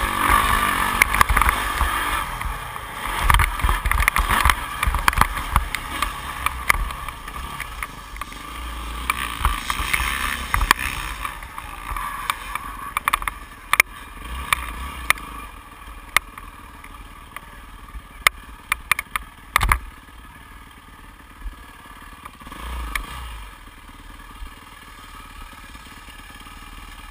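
2008 Yamaha YZ450F four-stroke single-cylinder motocross bike running, with frequent sharp knocks and clatter from the bike. It is louder for roughly the first ten seconds, then quieter, with occasional sharp knocks.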